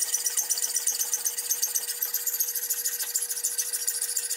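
Hacksaw cutting through a wooden hammer handle just below the head, in rapid, even rasping strokes.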